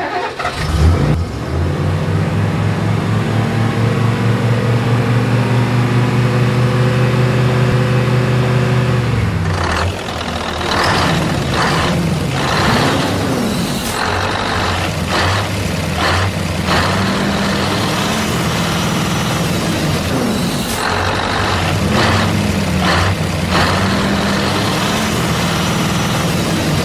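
Tractor engine running with a steady low chug for about the first ten seconds, then uneven revving mixed with sharp, irregular clattering.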